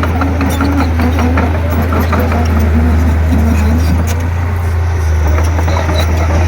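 Diesel engine of a Komatsu D31P bulldozer running steadily with a deep, even hum, with scattered light clicks and clanks over it.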